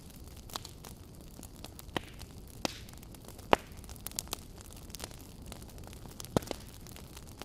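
Firewood burning in a campfire: a steady low hiss with scattered sharp crackles and pops, about eight of them, the loudest about three and a half seconds in.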